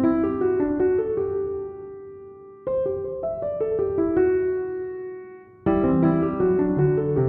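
Background piano music: gentle phrases of sustained notes, each phrase fading away before the next begins about every three seconds.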